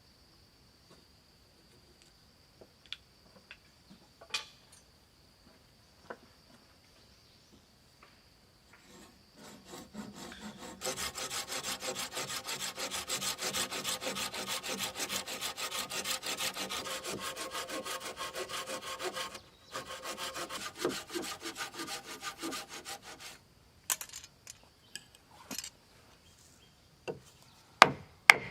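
Hand saw cutting through wood with rapid, even strokes. It starts about ten seconds in, stops briefly, then saws on for a few more seconds. Before it there is a faint steady insect drone and a few light knocks, and near the end come sharp knocks on wood.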